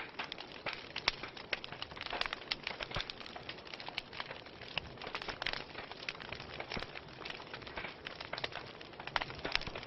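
Wood fire crackling: a steady hiss under a rapid, irregular scatter of sharp pops and snaps.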